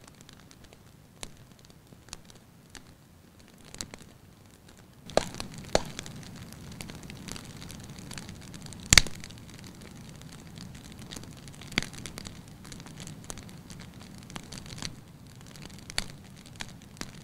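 Wood fire crackling in a fireplace. It starts with sparse light crackles, then about five seconds in turns to denser crackling over a soft hiss. A sharp, loud pop comes about nine seconds in, with a few more pops later.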